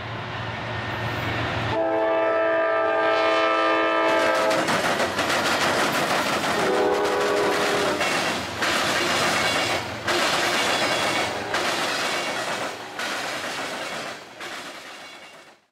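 Freight train's locomotive horn sounds a long chord and then a shorter blast as the train comes in. Then covered hopper cars roll across a diamond crossing over a steady rumble, their wheels banging repeatedly over the crossing rails.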